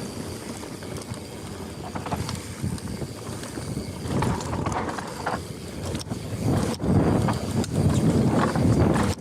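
Mountain bike riding over a dirt trail: uneven tyre and rattling noise with wind buffeting the microphone, and a couple of sharp knocks about two-thirds through.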